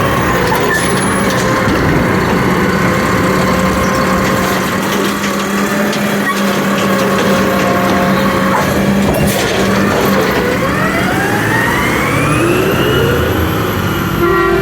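Garbage truck's diesel engine running with a steady drone, then rising in pitch as it revs up and accelerates about ten seconds in.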